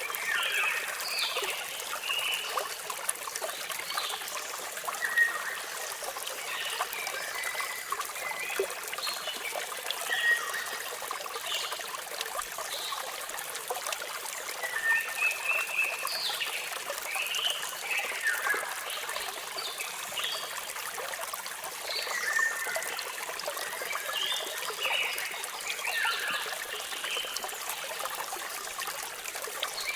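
Flowing water trickling steadily, with birds chirping repeatedly over it in short falling and level notes.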